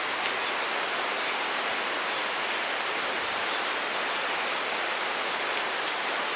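Steady heavy rainfall, a dense even hiss of rain with no single drops standing out.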